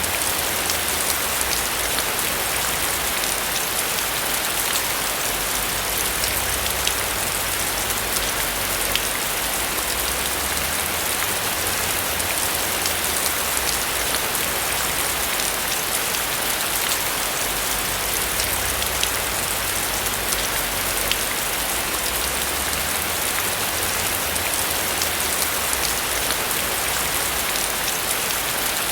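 Steady rain falling on a roof, a dense even hiss with many single drops ticking through it.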